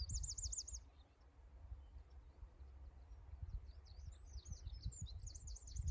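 Dartford warbler singing faintly: a quick rapid trill right at the start, then a longer scratchy, jumbled warble over the last two seconds, over a low rumble.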